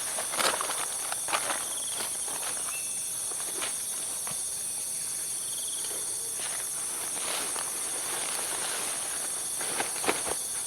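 Steady high-pitched chorus of forest insects, with scattered sharp taps and rustles, a cluster of them near the end.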